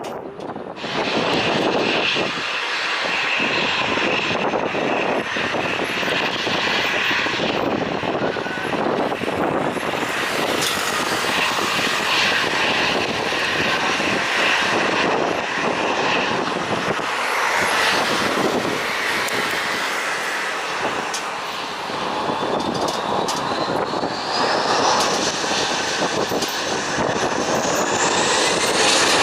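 Jet engines of a Boeing 777 on its landing approach: a loud steady rushing noise with a high tone, coming up sharply about a second in, and a whine climbing in pitch over the last several seconds.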